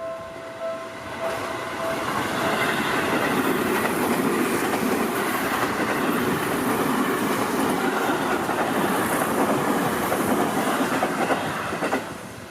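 A Seibu Ikebukuro Line electric train passes close by. The rumble and clatter of its wheels on the rails build up over the first two seconds, hold steady, and drop away suddenly near the end as the last car goes by.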